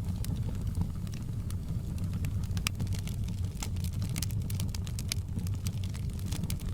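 Wood fire in a fireplace crackling: a steady low rumble of flames with scattered sharp pops and snaps at irregular intervals.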